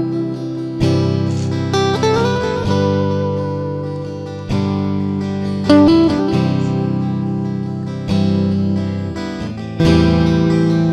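Background music: acoustic guitar playing chords, each struck note ringing and then fading.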